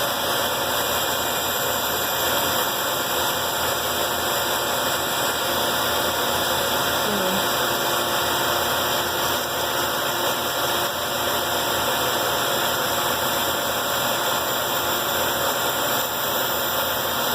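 Electric band saw running steadily while its blade cuts a piece of wood being turned through it.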